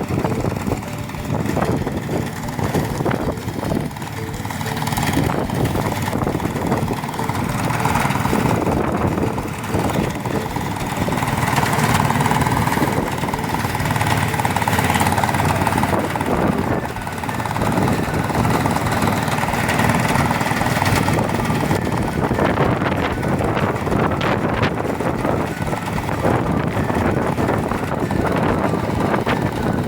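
Engine-driven rice thresher running steadily with a dense mechanical clatter.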